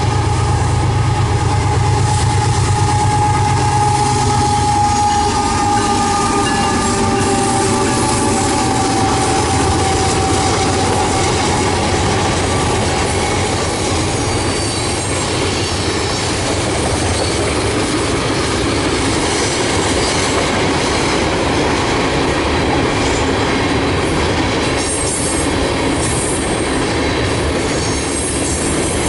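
CN diesel freight train passing close by. The locomotives' engines rumble for the first few seconds with a high tone that slowly falls and fades, then a steady run of freight and tank cars rolls past with wheels clattering on the rails.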